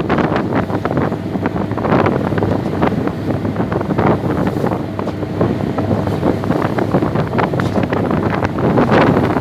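Wind buffeting the microphone: a loud, steady, rough rumble with constant crackling gusts.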